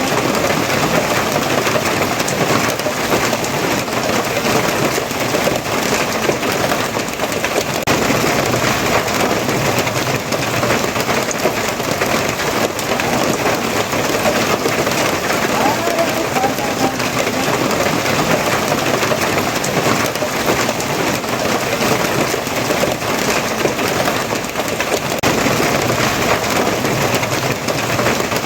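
Steady rainfall, an even unbroken hiss of rain falling on surfaces.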